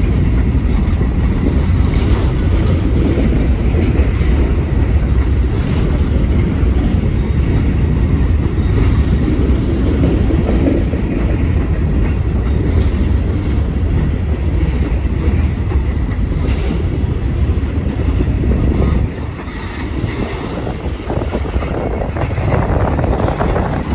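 A train rolling past: a heavy, steady rumble of cars on the rails with scattered wheel clicks. The rumble drops sharply about 19 seconds in.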